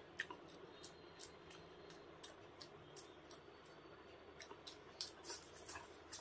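Close-up mouth sounds of a person eating masala egg curry with his fingers: soft wet chewing and lip-smacking, with irregular small clicks a few times a second.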